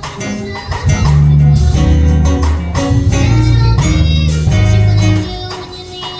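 Live gospel music from a church choir and band, with a heavy bass line and a steady beat; it eases off briefly about a second in and again near the end.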